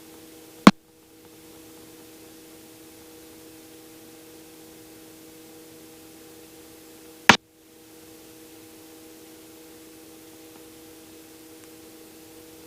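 Helicopter headset intercom feed with the voice gate closed: a faint steady electrical hiss with a low hum, broken by two sharp clicks about six and a half seconds apart.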